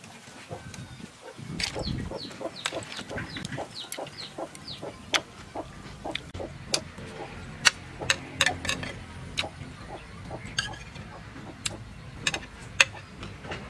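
Close-up eating sounds: chewing and sharp mouth and chopstick clicks at an uneven pace, the loudest around the middle and near the end. Chickens cluck in the background.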